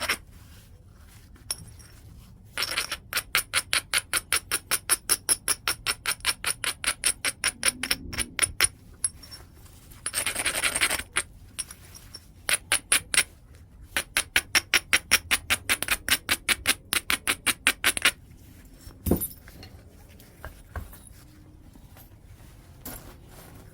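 Edge of a piece of white chert being abraded: rapid back-and-forth scraping strokes, about four a second, in two long runs with a short pause between them. Near the end come a few light clicks and one knock.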